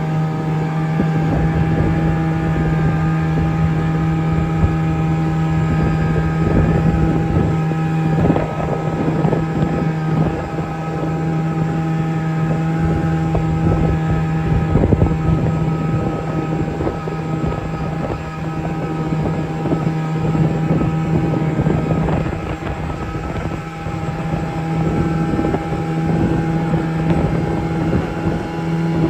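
Snowmobile engine running at a steady, nearly constant pitch while riding, with wind noise on the microphone.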